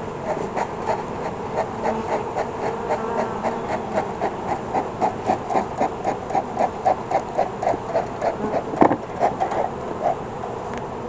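Honeybees buzzing around an opened hive as a steady hum, with a rapid rhythmic pulsing about four beats a second over it and a single sharp click near the end.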